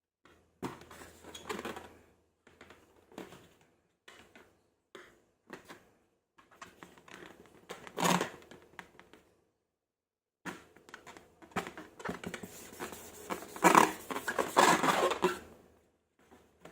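Slime being handled and worked by hand: irregular short bursts of sticky handling noise with silent gaps between, then a longer, louder stretch near the end.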